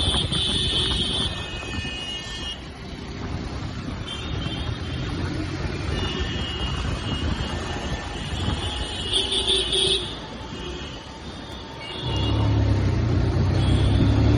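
Motorcycle riding through road traffic: engine and road noise throughout, the engine's low rumble getting noticeably louder about twelve seconds in.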